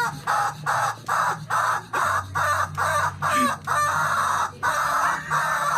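Rapid series of harsh, raspy chicken-like squawks, about two a second, each short and loud.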